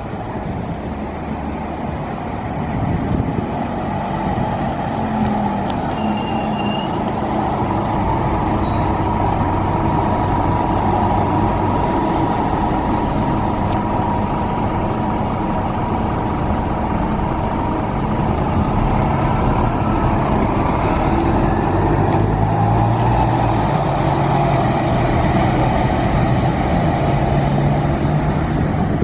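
Scania K320UB city bus with a Bustech VST body running and moving, a steady engine and road noise whose low engine tones shift in pitch several times, getting a little louder over the first few seconds.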